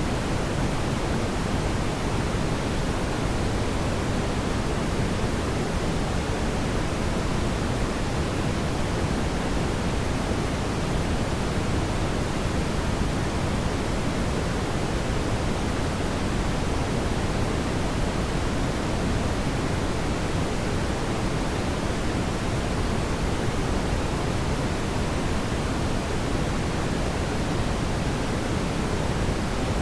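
Steady, even rushing noise, heaviest in the low end, with no separate crackles or pops.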